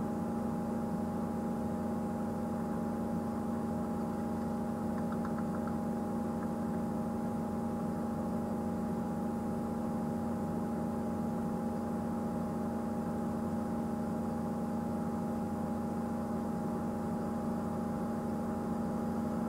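A steady engine hum with several fixed tones, unchanging throughout: a vehicle engine idling.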